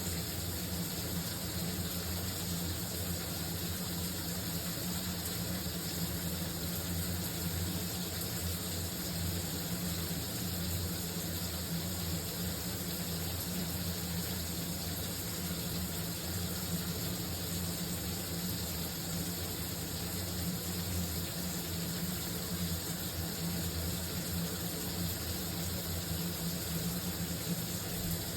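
Shower running steadily: a constant hiss of spraying water with a low hum underneath.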